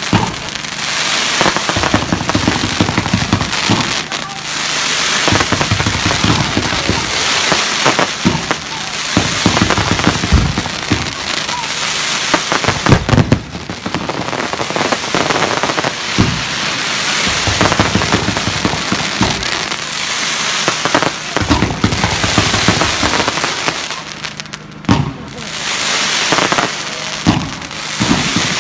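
Fireworks display going off: dense crackling with frequent sharp bangs and booms, the loudest bang about halfway through.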